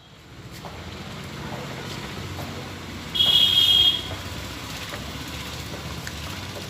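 Steady road traffic noise, with one loud, high-pitched horn toot a little under a second long about three seconds in.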